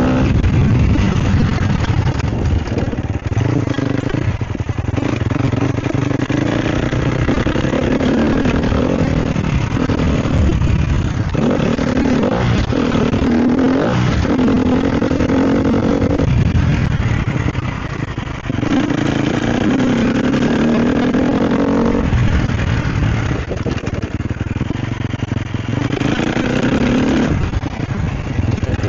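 Sherco SEF 250 four-stroke single-cylinder enduro bike ridden off-road, its engine revving up and down over and over as the rider works the throttle, with the throttle shut off briefly several times.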